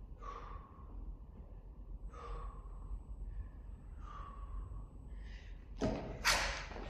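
An athlete breathing hard under exertion: short, forceful exhales about every two seconds, with a louder, harsher burst of breath near the end.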